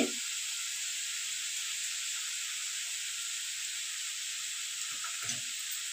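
Steady soft sizzling hiss of radish bhaji cooking in oil in a kadai on the gas stove. A brief faint low sound comes about five seconds in.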